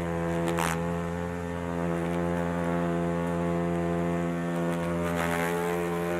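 Asian giant hornets buzzing: a steady, even drone of wingbeats, with a brief click about half a second in.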